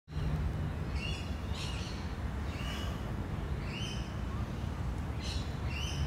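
Birds calling: short chirping notes repeated about once a second, over a steady low rumble.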